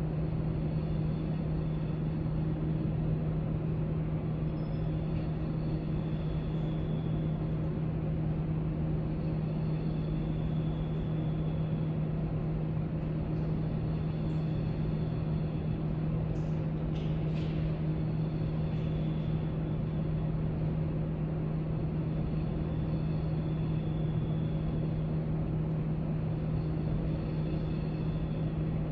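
Steady low hum and rumble of a library's background room tone, with a few faint brief clicks about halfway through.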